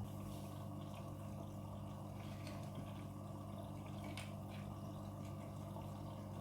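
Midea front-loading washing machine running: a steady low hum with water trickling and dripping inside, and a few faint ticks.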